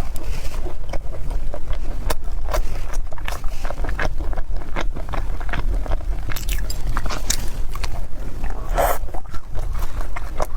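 Close-miked eating sounds: biting and chewing with wet clicks, crackles and scrapes, irregular and denser in the second half, over a steady low rumble.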